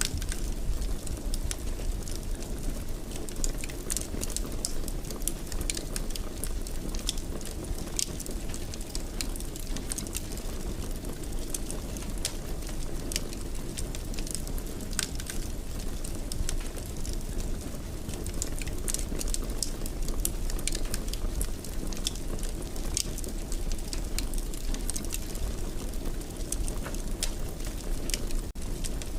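Wood fire in a fireplace crackling and popping irregularly, several small snaps a second, over a steady low rumble of burning. There is a brief dropout near the end.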